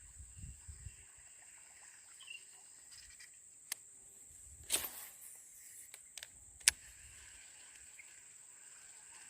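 Quiet outdoor ambience with a steady high-pitched insect drone, broken by a few sharp clicks or taps, the loudest about two-thirds of the way through.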